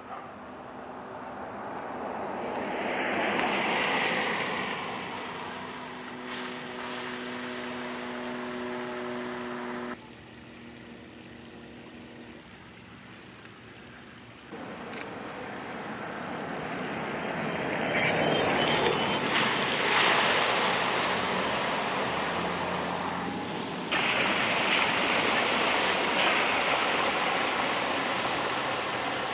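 Vehicles driving through floodwater on a rural road: a rush of tyre and water noise that swells and fades as they pass, with a steady engine hum at times. The sound changes abruptly three times, about ten, fourteen and twenty-four seconds in.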